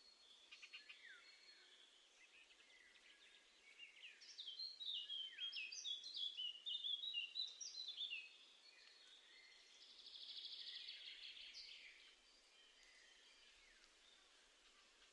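Small songbirds singing faintly: a quick phrase of varied chirping notes, then a few seconds later a fast trill.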